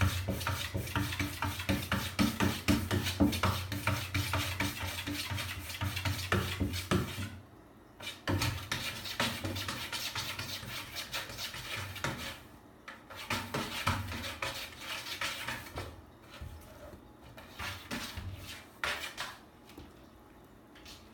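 Repeated scratching and rubbing, dense for about the first seven seconds, then in short spurts with quiet gaps: a cat scratching and pawing, wanting to be let out.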